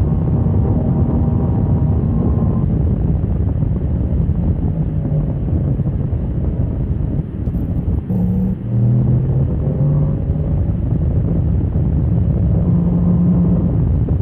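Motorcycle on track, its engine heard under heavy wind rush on the microphone. About halfway through the level dips briefly a few times and the engine note changes, then it runs steadily again.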